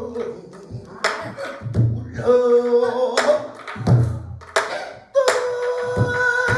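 Pansori singing: a voice holding long, wavering notes, accompanied by a buk barrel drum with deep thumps about two seconds apart and sharp stick clicks on the drum's wooden shell.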